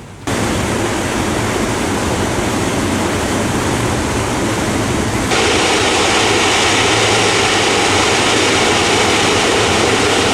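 Debris flow of mud, water and rock rushing down an Alpine torrent channel: a loud, steady roar that gets louder about five seconds in.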